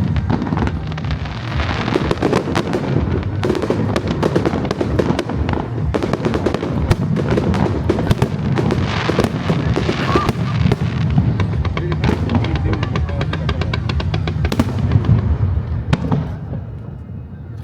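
Aerial fireworks going off in a dense barrage of rapid crackles and booms, with music playing alongside. The barrage thins out near the end.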